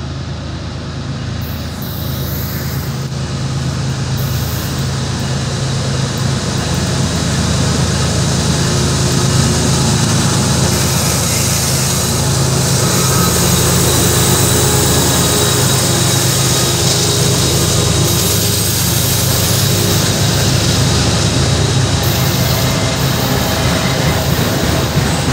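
Freight train passing close by: a diesel locomotive's engine hums steadily and grows louder over the first several seconds as it comes past, then enclosed autorack freight cars roll by with wheels rumbling on the rails.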